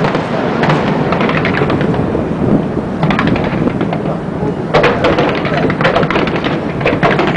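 Aerial fireworks display: a continuous rumble of shell bursts booming and echoing, with repeated clusters of crackling from crackle-effect shells.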